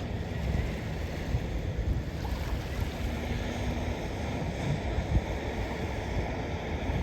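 Surf washing on the beach, with wind rumbling on the microphone.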